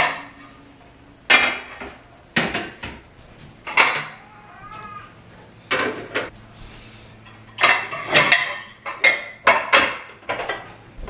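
Dishes and cutlery clattering and clinking as they are handled and set down, about a dozen irregular knocks with short ringing. A brief high wavering sound comes between them about four to five seconds in.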